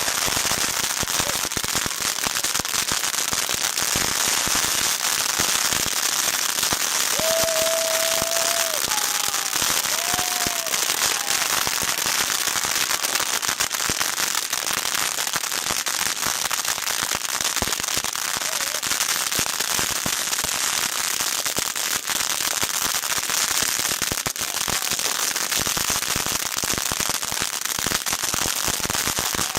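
Fireworks crackling without a break: a dense, rapid run of small bangs like a long string of firecrackers going off, holding a steady level throughout.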